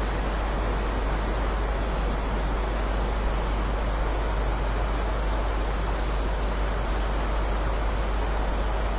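Steady rain falling, an even unbroken hiss with a strong low rumble underneath.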